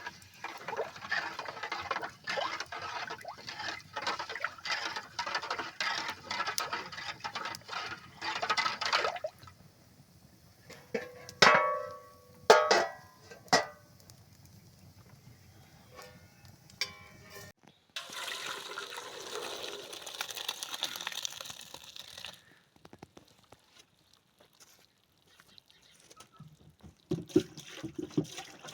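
Liquid being worked in a cooking pot: a long spell of sloshing and splashing, then two or three loud, ringing metal clanks about halfway through, and a steady rush of pouring for about four seconds after.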